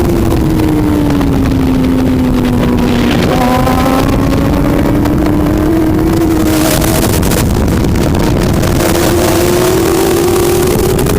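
Superbike engine running hard: its pitch falls over the first three seconds as the bike slows, then climbs steadily as it accelerates again, over a constant loud rushing noise.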